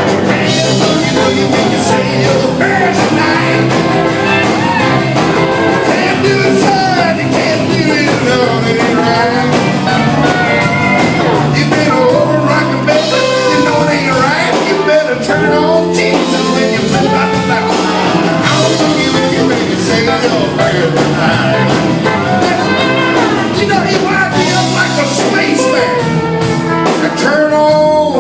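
Live blues-rock band playing loudly and steadily, guitars with bending melodic lines over a steady bass and drum beat.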